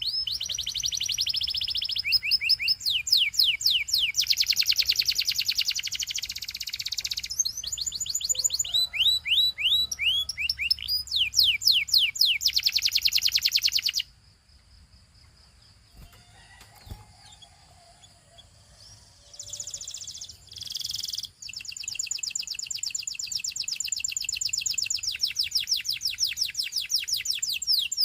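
A canary singing: fast repeated downward-sweeping notes and long rapid trills, with a pause of several seconds about halfway through before the trilling starts again.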